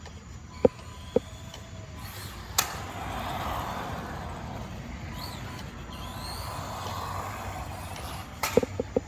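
RC rally car's motor whining up and down as the car drives, with its tyres on the ground. Two sharp knocks come about a second in, and a quick run of knocks comes near the end.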